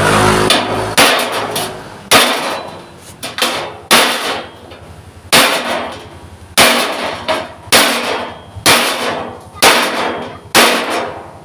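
Hammer blows on thick steel plate, about one strike a second, each ringing briefly as the plate is beaten into shape. An engine-like hum fades out in the first second.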